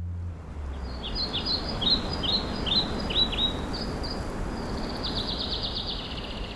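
Forest ambience: a steady outdoor hiss with a songbird calling a series of short, high, downward-slurred notes, then a fast trill of rapid high notes near the end.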